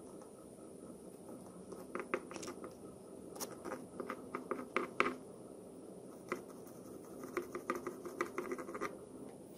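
Light clicks and scratches of small hard parts being handled and worked by hand, coming in irregular clusters from about two seconds in until near the end, over a steady low hum.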